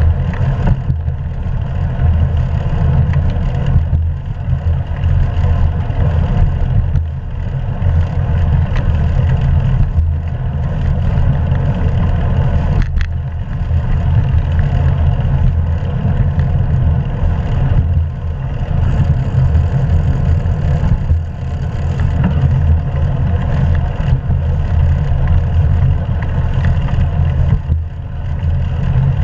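Wind rumbling on a GoPro action camera's microphone while riding a bicycle: a steady, loud low rumble that flutters in level, with one short click about 13 seconds in.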